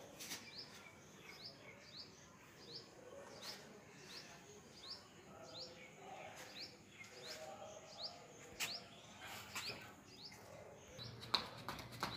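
A bird repeating a short, rising chirp about twice a second, faint. Near the end come quick footsteps on concrete, jogging on the spot.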